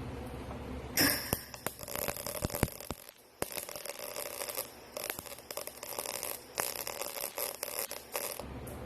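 Electric welder's arc crackling in several short runs with brief pauses between, starting about a second in, as holes in an exhaust pipe are filled with weld.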